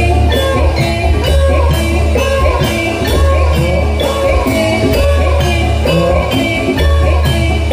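Jathilan dance accompaniment music: a loud ensemble playing repeating melodic figures over a steady beat of regular percussive strokes and a pulsing bass.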